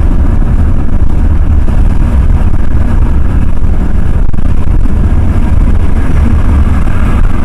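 Ford F-350 pickup truck under way, a steady loud low rumble of engine and road noise heard from inside the cab.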